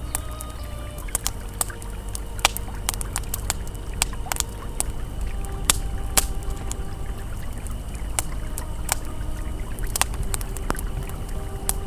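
Campfire crackling, with irregular sharp pops and snaps, over the steady low rush of a flowing river. Faint held ambient tones sit underneath.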